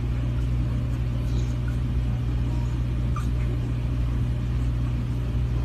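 A steady low rumble, like a running vehicle's engine and road noise, with a few faint ticks.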